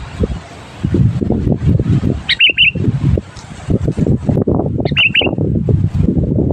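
Sooty-headed bulbul giving two short, quick chirping phrases of a few notes each, about two seconds in and again about five seconds in, over a loud, irregular low rumbling noise.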